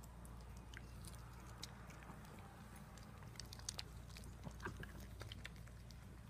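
Dachshund chewing pineapple, with quiet irregular wet clicks and smacks of his mouth, a few louder ones about halfway through, over a faint steady low hum.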